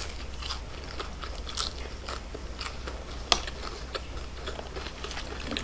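Close-up crunching and chewing of a fried shrimp egg roll: scattered crisp bites, the sharpest about three seconds in.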